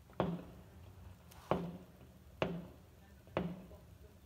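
Aerial fireworks bursting: four sharp bangs about a second apart, each fading out quickly after it.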